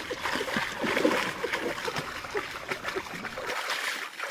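Water splashing and trickling, with many small irregular splats and plops.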